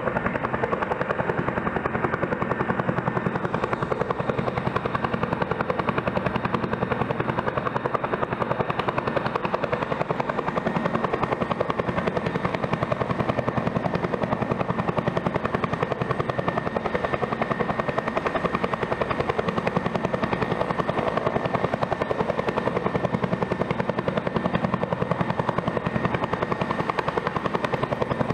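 Bell helicopter running steadily, its turbine and rotor giving an even rapid beat with a steady high whine over it.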